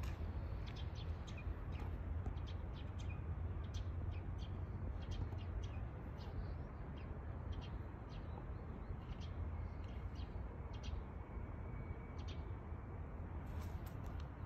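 Small birds chirping: many short, high calls in quick succession, thinning out in the second half, over a steady low outdoor rumble.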